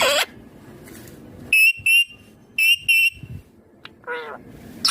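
Indian ringneck parakeet giving short shrill calls: two quick pairs of high notes, then a falling note near the end.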